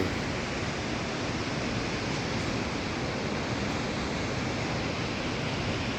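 Steady, even rushing of a powerful waterfall.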